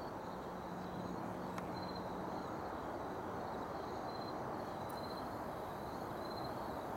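Steady rushing outdoor background noise with insects chirping in short, evenly repeated pulses.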